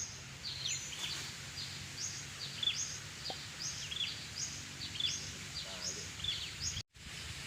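A bird calling over and over, a short high chirp that steps downward, about once every 0.8 s, over a low steady hum. The sound drops out for an instant near the end.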